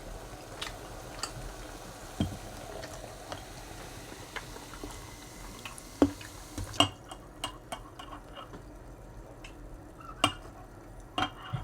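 Close-miked mouth and eating noises: scattered soft wet clicks and smacks, with a few louder ones about six, seven, ten and eleven seconds in.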